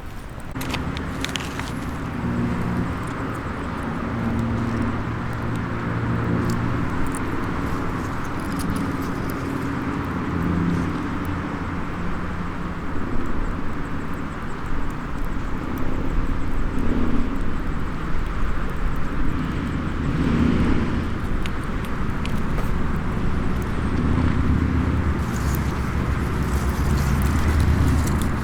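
Engine noise from passing motor traffic: a low rumble with engine tones that rise and fall as vehicles go by, with a few faint crackles of a small wood fire.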